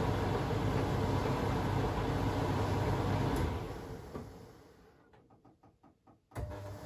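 Privileg Sensation 952 S top-loading washing machine running with a steady hum, then its noise dies away over a second or so about three and a half seconds in. It goes almost quiet with a few faint regular ticks, and the running sound comes back abruptly near the end.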